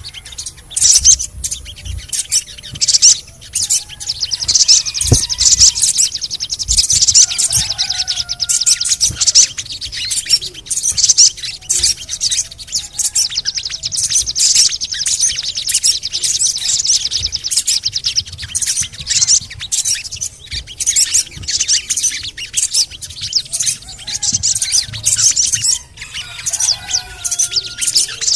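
Crimson sunbird singing: rapid, high-pitched chirps and chattering trills with hardly a break, including a long, fast, even trill in the middle.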